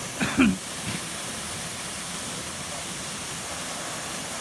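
Steady rush of a waterfall, an even hiss of falling water. A short voice sound comes right at the start.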